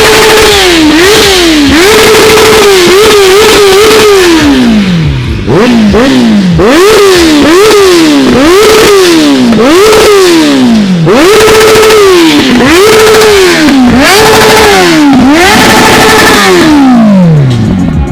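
Kawasaki motorcycle engine revved hard over and over: each blip climbs fast, holds at a steady high pitch for a moment, then falls away. Loud throughout, with the revs dropping off for the last time near the end.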